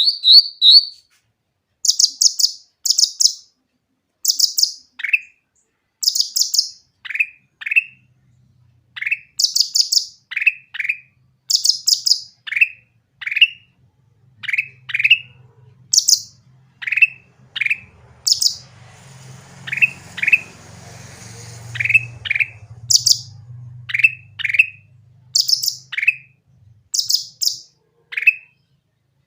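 Cucak ranting songbird calling repeatedly: short, sharp high chirps alternating with quick falling notes, about once a second. A faint low hum runs underneath from about a quarter of the way in, with a brief hiss near the middle.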